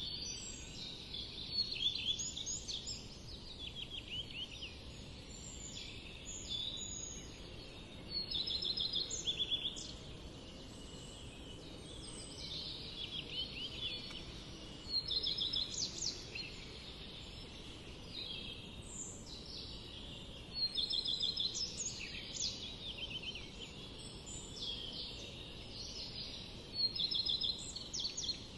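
Small birds singing, with repeated high chirping phrases every couple of seconds, over a steady low background rumble.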